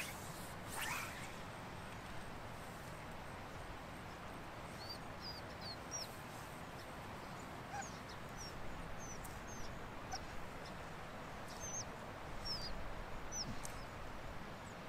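Small birds chirping, a loose string of short high chirps about one a second, over a faint steady outdoor hiss. There is a brief swish about a second in.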